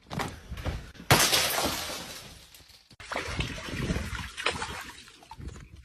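A sudden loud crash about a second in that fades over about two seconds, followed by more scattered knocks and noise.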